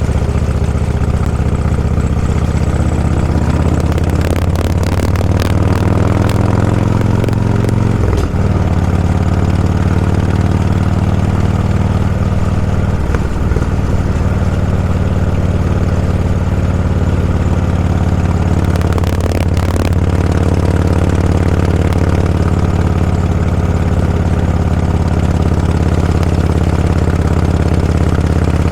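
Vehicle engine running steadily while under way. About eight seconds in it dips briefly and the engine pitch shifts, like a gear change.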